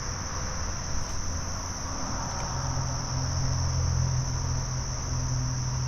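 Insects singing in a steady, unbroken high-pitched chorus, over a low steady rumble.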